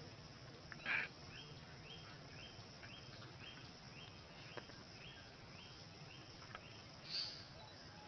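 Bird calls in forest: a short harsh call about a second in, then a run of short high notes, about two a second, evenly spaced, and another sharp call near the end.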